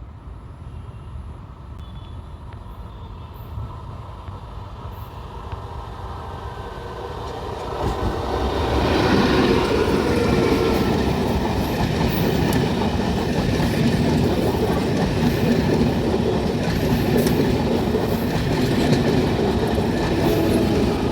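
MEMU electric multiple-unit train approaching, growing louder for about eight seconds, then running past close with a steady loud rumble of wheels on the rails.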